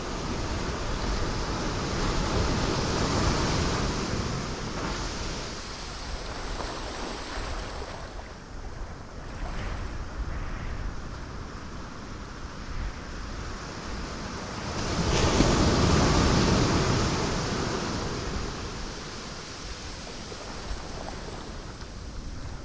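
Ocean waves breaking on rocks: a rushing wash of surf that rises and falls, with a smaller swell early on and the biggest wave breaking about two-thirds of the way through.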